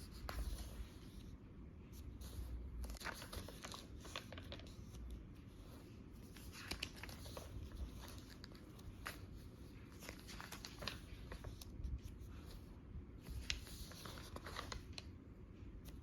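Paper rustling and crinkling in irregular bursts: journal pages being handled and turned.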